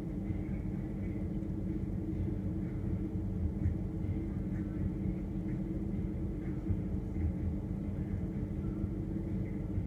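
Refrigerator humming steadily, heard from inside the closed fridge: a low drone with a few steady tones and an underlying rumble.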